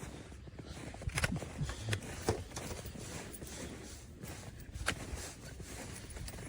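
Footsteps of a dog wearing boots: a few irregular taps and scuffs of the booted paws.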